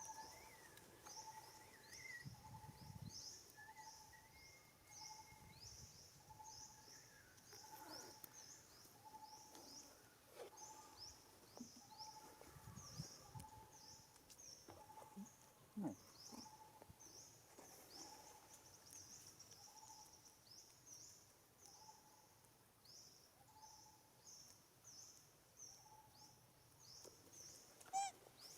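Faint outdoor woodland ambience of animal calls: short high chirps about twice a second over a lower note repeated about once a second, with a couple of brief clicks.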